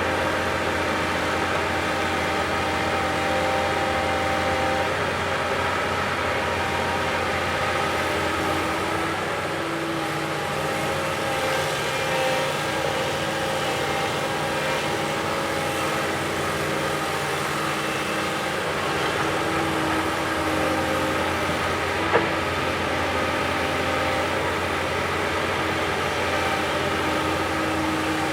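Earthmoving machine's diesel engine running steadily, its pitch shifting a little partway through, with one sharp knock about three-quarters of the way in.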